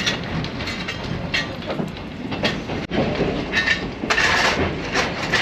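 Passenger railcar running along the track, a steady rumble with scattered clicks and clanks. About four seconds in comes a scraping, rattling clatter as coal is fed into the car's pot-bellied coal stove.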